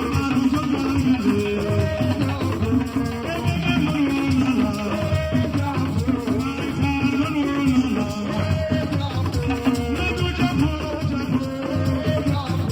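Live Assiko music: singing over a steady beat of drums and other percussion.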